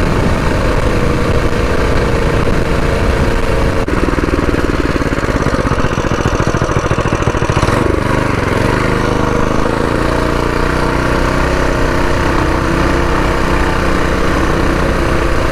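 Predator 212 single-cylinder four-stroke engine on a mini bike running under part throttle while riding, with wind noise on the microphone. About halfway through the engine note drops and settles into a lower, steadier drone.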